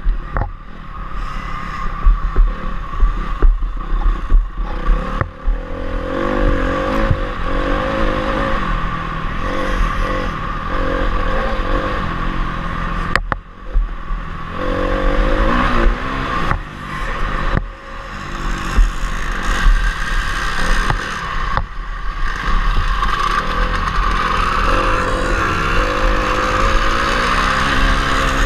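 Honda CRF250R's single-cylinder four-stroke engine revving up and down as the motocross bike is ridden hard, with the throttle shut off briefly a couple of times. The bike clatters over the track's bumps.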